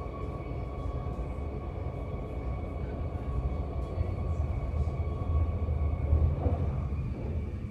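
Passenger train running fast over the rails, heard from inside the carriage: a continuous low rumble of the wheels with a steady high whine over it, as it crosses a steel truss bridge at about 140 km/h.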